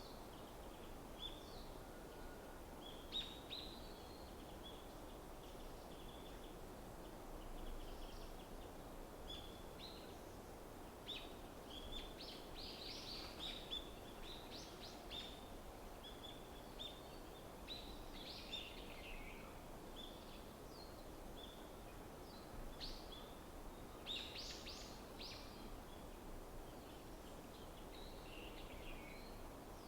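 Several small birds chirping and calling in a winter forest: many short, high chirps throughout, busiest in the middle and again about three-quarters of the way in. A steady low background noise lies underneath.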